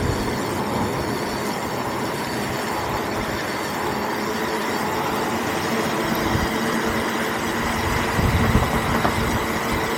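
A vehicle being ridden at a steady speed: a constant whine from its drive with wind rumbling on the microphone, gusting louder about eight seconds in.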